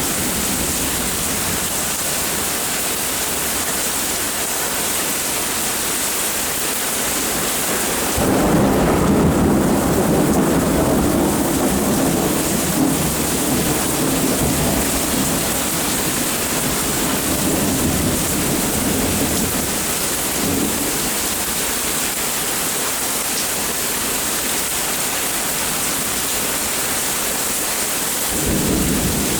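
Steady rain falling through a thunderstorm. About eight seconds in a loud thunder rumble breaks in and rolls for around ten seconds before fading back into the rain, and a shorter low rumble rises near the end.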